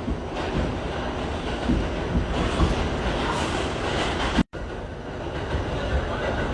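Running noise inside an R68 subway car on a D express train in motion: a steady low rumble of wheels on the rails with scattered clicks. The sound cuts out abruptly for a split second about four and a half seconds in, then resumes.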